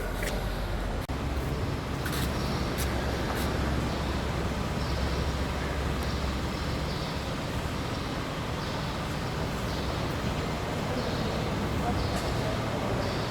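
Steady low rumble of a running motor vehicle with road and traffic noise, and indistinct voices over it.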